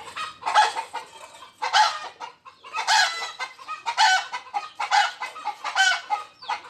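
Chickens clucking, a series of separate short calls about once a second.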